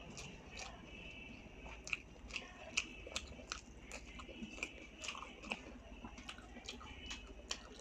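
Close-up chewing and biting of food, with short crisp crunches and wet mouth clicks coming irregularly, a few a second.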